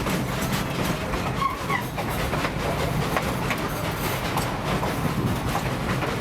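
Durango & Silverton narrow-gauge train rolling along the track, heard on board: a steady rumble with wheels clicking and rattling over the rails.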